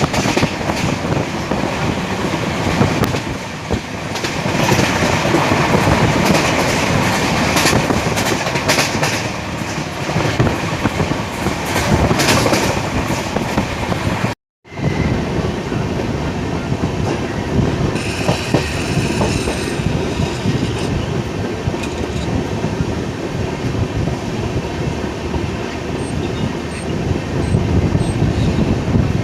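Passenger train running at speed, heard from on board: a steady rumble and rattle with the wheels clattering over rail joints. The sound cuts out completely for a moment about halfway through, then resumes.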